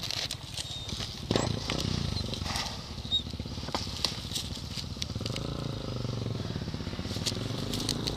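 Dirt bike engine running, its low pulsing note steadying about halfway through, with sharp clicks and knocks over it.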